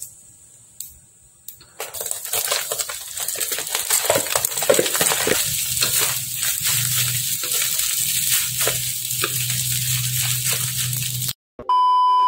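Rice stir-fried in hot oil in a wok with a wooden spatula: dense sizzling and crackling with scrapes and taps of the spatula, loud from about two seconds in after a quieter stretch. Near the end it cuts off and a loud, steady electronic test-tone beep takes over.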